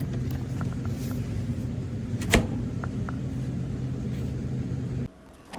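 Steady low mechanical hum with a sharp click about two seconds in and a few faint ticks; the hum cuts off suddenly near the end.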